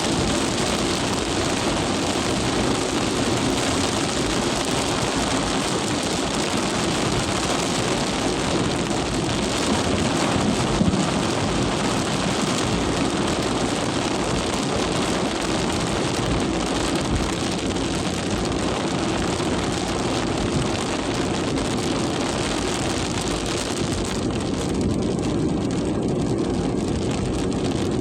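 Heavy rain pouring steadily in strong wind: a loud, unbroken rush.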